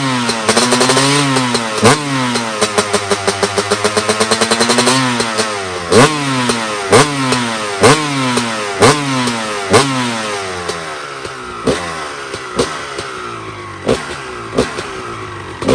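Honda CR250 two-stroke motorcycle engine revving over and over, its pitch climbing about once a second and each climb ending in a sharp crack. For a couple of seconds in the first third there is a quick run of crackles while the pitch dips and rises again.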